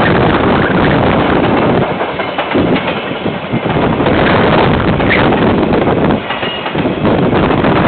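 KiwiRail train passing, a loud steady rumble of wheels and wagons on the rails heard through a security camera's microphone, dipping briefly twice.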